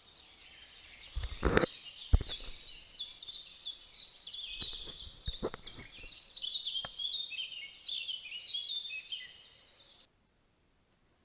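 Small birds singing, a dense run of rapid high chirps and trills, with a few sharp knocks among them; the sound cuts off abruptly to silence near the end.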